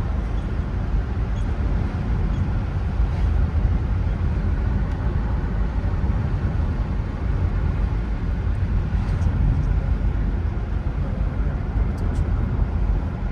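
Steady low rumbling noise with no clear tones, holding at an even level throughout, with a few faint ticks.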